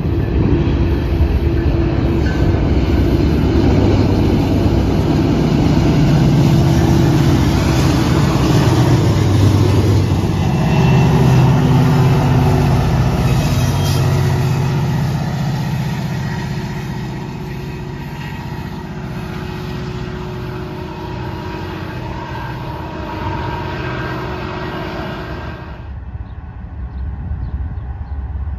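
A train passing close by, its locomotive engine running with a steady drone under the clatter and rumble of the wheels. It is loudest in the first half and eases off after that. A few seconds before the end it changes abruptly to a quieter, duller rumble.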